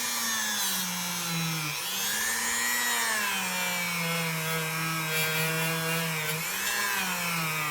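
Small rotary power tool running against the metal bolster of a pocket knife, cleaning off rust and grime; its whine sags in pitch and recovers a few times as it is pressed on and eased off.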